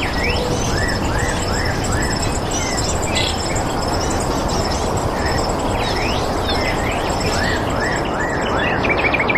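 Several birds chirping and singing over a steady rushing hiss. There are runs of short rising-and-falling notes, four in a row near the start and again near the end, along with quick downward sweeps and a fast, even, high-pitched pulsing trill.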